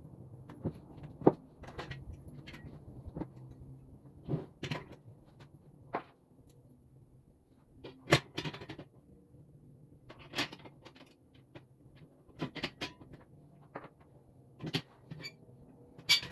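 Irregular sharp knocks and clicks of parts being handled and fitted while a small pre-fab work table is assembled, about a dozen in all. The loudest come about a second in, about eight seconds in and at the end.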